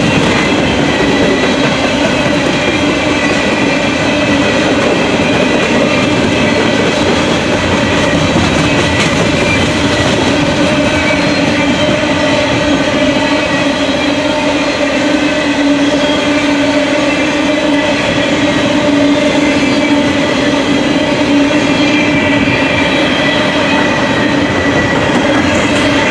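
Coal hopper cars of a freight train rolling past close by: a steady, loud wheels-on-rail rumble with clickety-clack and a continuous ringing tone from the wheels.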